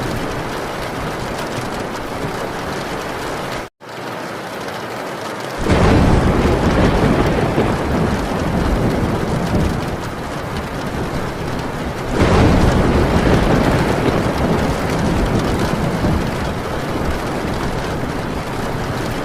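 Heavy rain drumming on a metal tin roof, with two long rolls of thunder, the first starting about six seconds in and the second about twelve seconds in. The sound cuts out for an instant about four seconds in.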